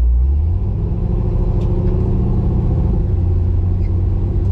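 1967 Chevy Nova's engine on a FiTech 600 hp fuel-injection system, running at low speed; its pitch steps up a little shortly after the start and then holds steady.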